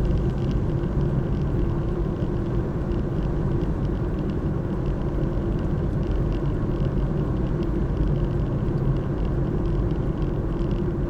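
Steady low rumble of a car on the move, engine and road noise without let-up.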